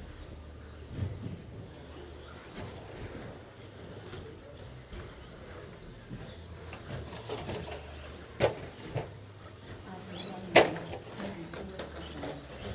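Two sharp knocks about two seconds apart, the second louder, over a low steady background hum.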